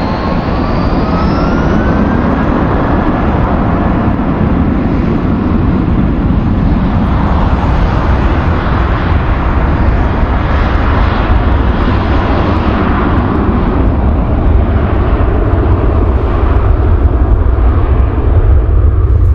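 Jet airliner engines at close range. A whine rises in pitch over the first two seconds, then a loud, steady rumble builds slightly louder toward the end.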